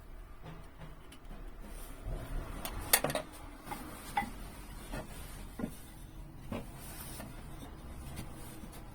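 A few light knocks and clicks of objects being handled, the sharpest about three seconds in, over a steady low hum.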